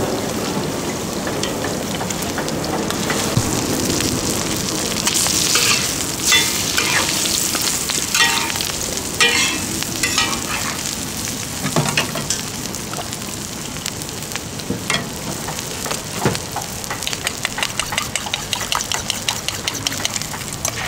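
Thai omelets frying in hot oil on a round black pan, a steady sizzle throughout. In the middle, metal ladle and spatula clink and scrape against the pan, and near the end comes a fast run of small clicks.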